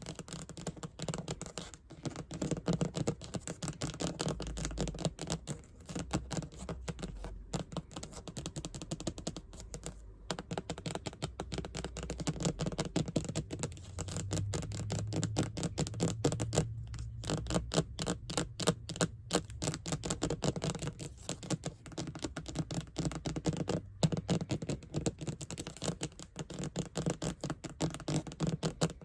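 Fast tapping with scratching on a hard surface: a dense, unbroken run of quick taps with a few short pauses.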